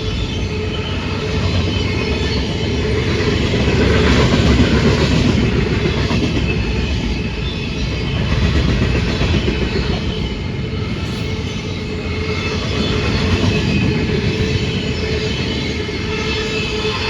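Union Pacific manifest freight train rolling past: a steady rumble of wheels on rail, with faint high ringing tones above it.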